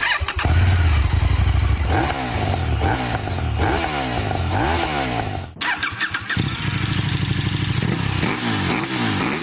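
KTM Duke motorcycle exhaust as the engine is revved repeatedly, the pitch climbing and dropping with each blip of the throttle. The sound breaks off sharply about halfway through, then the revving resumes.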